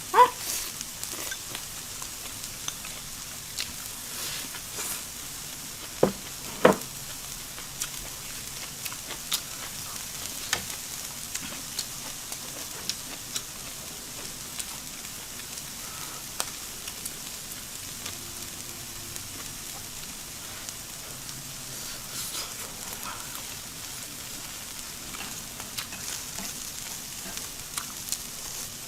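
Shrimp and vegetables sizzling on an electric tabletop grill, a steady hiss with scattered small pops. Two sharp clicks about six seconds in.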